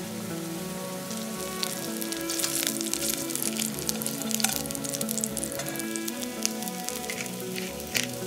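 Halved beetroots frying in hot oil in a pan: a steady sizzle with dense crackling, growing busier about two seconds in.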